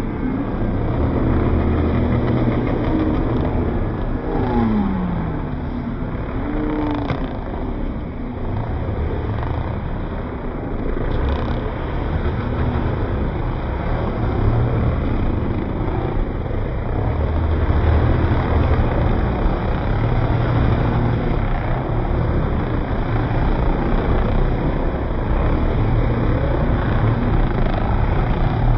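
Motocross dirt bike engines running and revving, with the pitch rising and falling a few times in the first several seconds.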